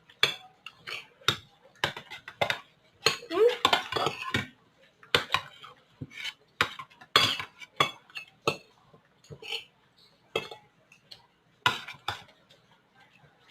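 Metal spoons clinking and scraping against plates in quick, irregular strikes as rice is eaten fast.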